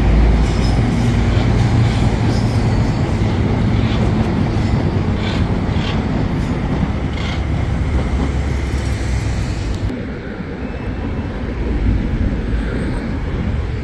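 Electric commuter train running past, a steady rumble of wheels on rail with scattered clicks over the rail joints. About ten seconds in, it gives way to a duller, more distant rumble.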